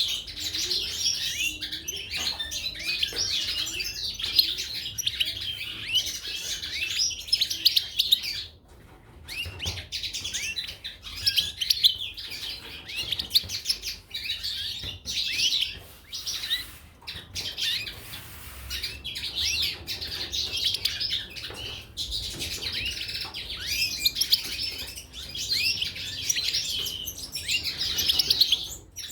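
Goldfinches and canaries chirping and singing together, a dense stream of quick, high, overlapping twitters and trills, with a brief lull about nine seconds in.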